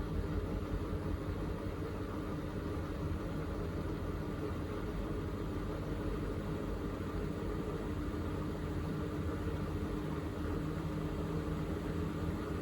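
Miele Navitronic W3985 WPS washing machine spinning after the second rinse: a steady hum of the motor and turning drum at an even speed.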